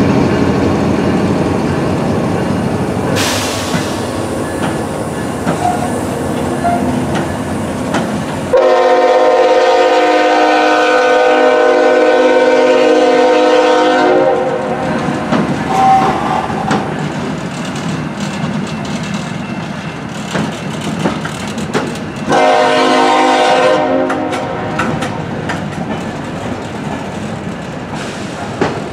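Diesel-powered freight train passing close by, its locomotives and wheels rumbling steadily over the rails. A locomotive air horn sounds a long blast about nine seconds in and a shorter blast a little past twenty-two seconds; the horn is the loudest sound.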